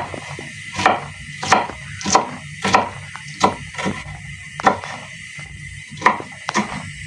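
A kitchen knife chopping bell pepper on a cutting board, about ten sharp knocks at an uneven pace of one to two a second.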